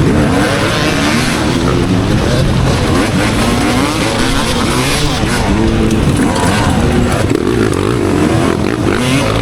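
Motocross bike engine revving up and down as the rider works the throttle and gears, over a steady rushing noise.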